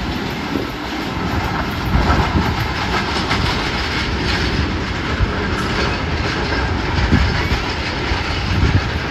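Train cars rolling past at close range, their wheels clattering steadily over the rail joints.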